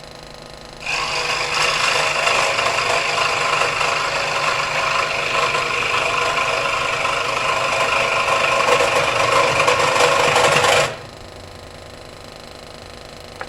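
Harbor Freight scroll saw cutting a board about 5/8 inch thick: a loud, steady rasping buzz of the reciprocating blade in the wood that starts suddenly about a second in and stops suddenly near the end, leaving the saw's quieter running hum.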